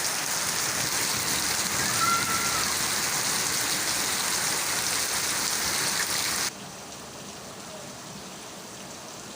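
Rain falling, a steady even hiss that drops suddenly to a quieter level about six and a half seconds in.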